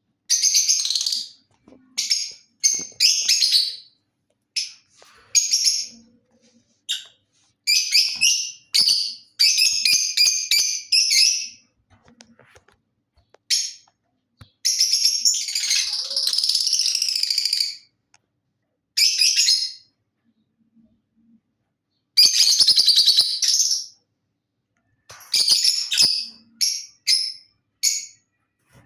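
Lutino lovebird chattering in shrill, buzzy bursts of calls, some brief and some running two or three seconds, with short silent gaps between them.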